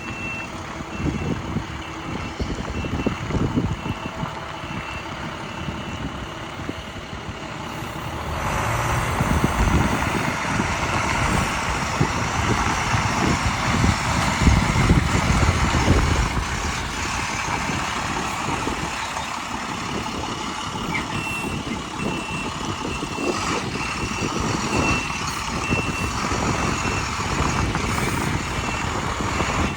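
2007 International 4000 Series box truck running and moving, with a backup alarm beeping steadily at one high pitch in the first few seconds and again during the last third. The engine and road noise grow louder about eight seconds in.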